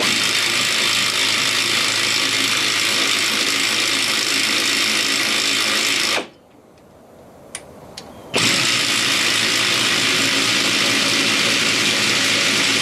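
Pneumatic air ratchet turned up to full speed, spinning the lead screw of a VW engine stand to drive the carriage. It runs steadily for about six seconds, stops for about two with a couple of light clicks, then runs again, the second run moving the carriage the other way. The ratchet is lightly loaded.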